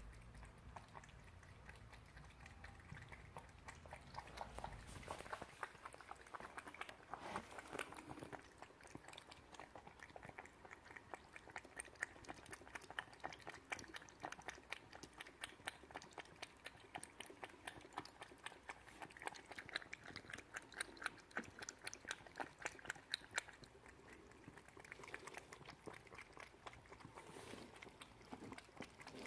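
A cat licking a churu squeeze-tube paste treat: a faint, quick run of small wet lapping and smacking clicks, several a second.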